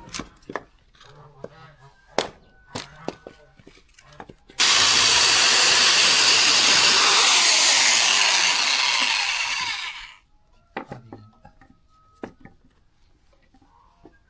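A few knocks of wood being handled, then a power saw cuts through wood for about five seconds. It starts abruptly and dies away as the cut ends.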